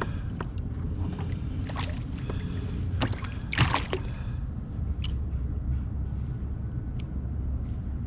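Water and wind noise around a fishing kayak: a steady low rumble with about half a dozen short splashes and knocks, the loudest about three and a half seconds in.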